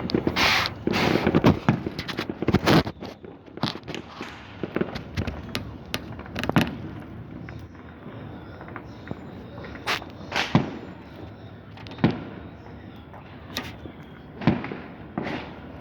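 Fireworks and firecrackers going off: a rapid cluster of sharp bangs in the first few seconds, then single bangs scattered every second or two.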